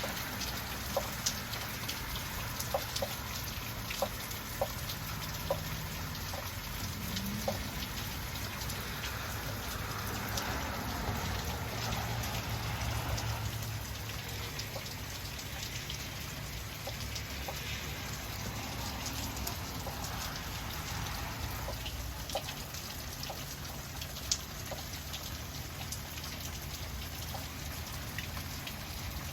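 Heavy rain falling steadily, with sharp taps of single drops hitting a hard surface, most frequent in the first several seconds.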